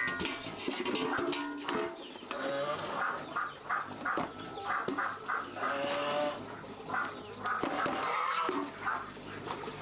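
Chickens clucking, many short calls overlapping without a steady rhythm.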